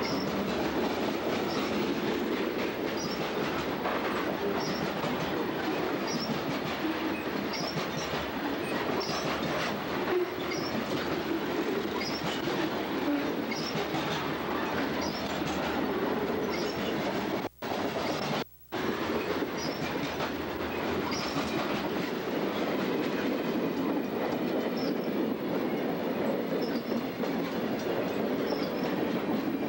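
Santa Fe freight train of covered hopper cars passing at speed, steel wheels clattering over the rails, with a short high squeal recurring about every second and a half. The sound drops out twice, briefly, a little over halfway through, a digitizing glitch in the tape transfer.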